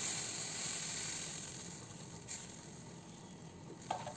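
Vegetables and tofu in a wok sizzling softly as coconut milk goes in, the hiss slowly fading. Two faint ticks in the second half.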